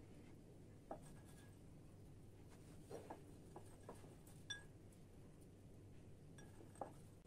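Quiet room with a handful of faint, scattered light taps and clicks, one of them a brief clink about halfway through.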